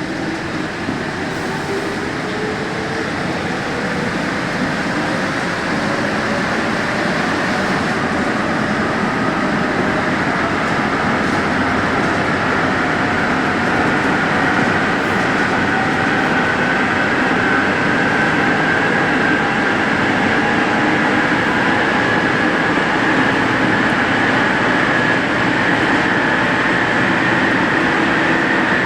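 Santiago Metro NS-74 rubber-tyred train running, its traction motors whining higher in pitch as it gathers speed, with steady running noise growing slowly louder.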